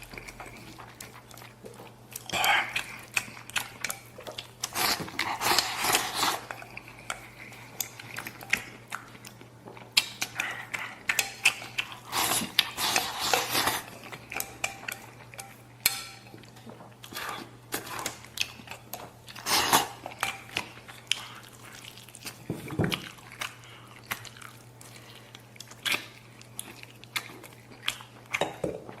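A person eating: chewing, with intermittent short clicks of utensils against a dish.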